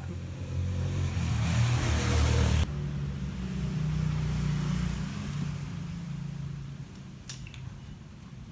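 A motor vehicle engine running. It is loudest, with a rushing noise over it, for the first couple of seconds; that noise cuts off suddenly, and a lower steady engine hum goes on, fading over the last few seconds.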